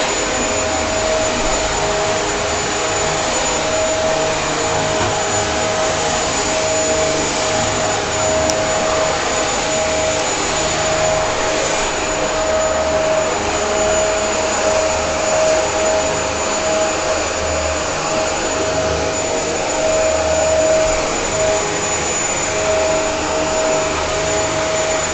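Vacuum cleaner running steadily: a constant rush of air with a steady motor whine that does not change.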